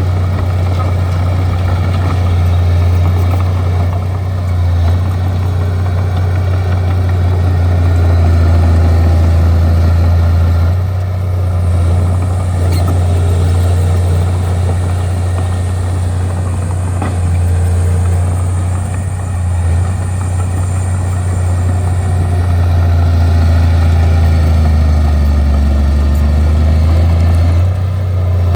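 Bulldozer's diesel engine running steadily, a deep continuous drone, with a faint high whine joining in about twelve seconds in and fading out some ten seconds later.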